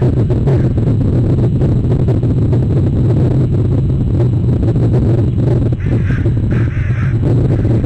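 A steady low rumble with two short, harsh bird calls close together near the end.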